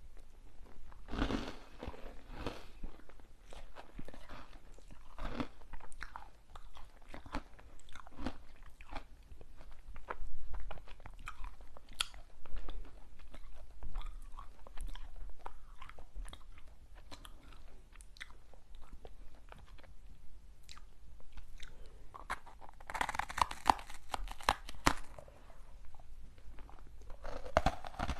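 Close-miked biting and chewing of crunchy sweets: many sharp crackles and snaps, with louder bursts of crunching near the start and again late on.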